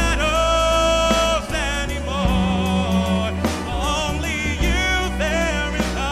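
Live musical-theatre singing with band accompaniment: a voice holds a long note for about a second, then sings shorter phrases with wavering vibrato over steady low instrumental backing.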